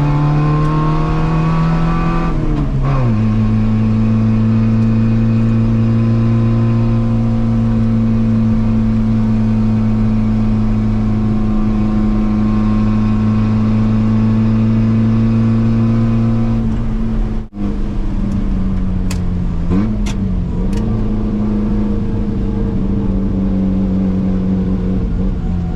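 Yugo's four-cylinder engine pulling under way. Its pitch rises for about two and a half seconds, then drops sharply as at a gear change. It settles into a steady drone while cruising, cuts out for an instant about two-thirds through, and then carries on with a slight wobble.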